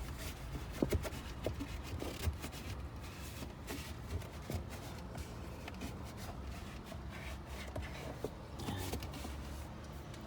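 Irregular rubbing and scuffing with scattered light knocks, from a car's interior being cleaned by hand.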